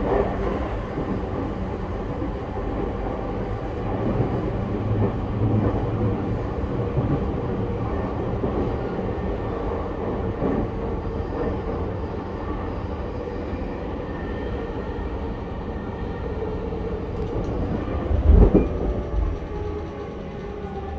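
Running noise inside an E231-1000 series commuter train car at speed: a steady rumble of wheels and running gear on the rails, with one heavy thump near the end. Just before the end the faint whine of the car's Hitachi IGBT VVVF traction inverter starts to come in.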